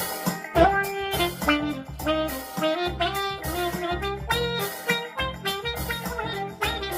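Saxophone played through an Electro-Harmonix Q-Tron envelope filter, giving short wah-wah notes over a backing track with bass and drums.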